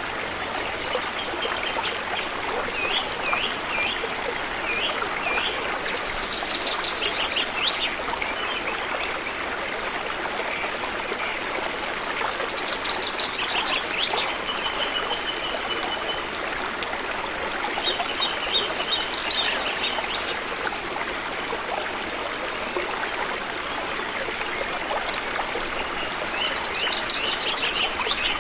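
River water flowing steadily, with birds singing over it: short trills and chirps that come back every few seconds.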